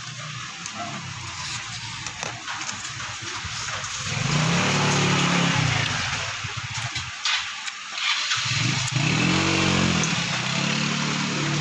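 An engine running, swelling and arching up and down in pitch twice, over a background hiss.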